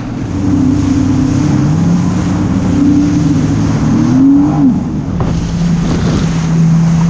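Jet ski engine running under throttle, its pitch rising and falling, then holding steady from about five seconds in, over the rush of wind and water.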